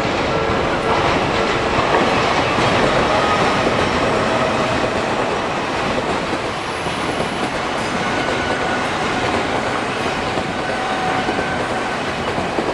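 Odakyu electric commuter train running past at speed over a level crossing: steady wheel and motor noise with a rail-joint clickety-clack, while the crossing's warning bell rings with a steady tone. The sound begins to fade near the end as the last cars go by.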